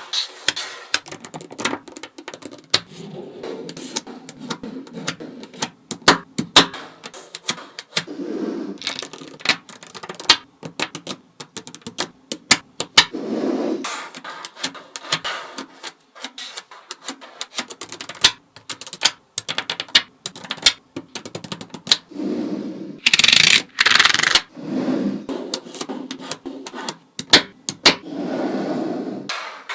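Small magnetic balls clicking and snapping together in quick, irregular taps as a model is built from them, with patches of rattling as a handful of balls is moved about; a burst of louder clicks comes about 23 seconds in.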